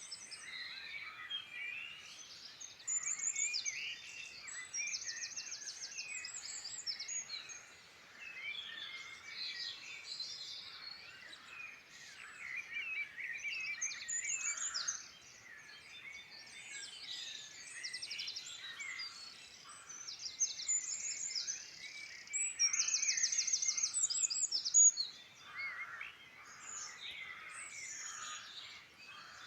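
Several songbirds singing at once, their songs and chirps overlapping, with rapid trills that come and go.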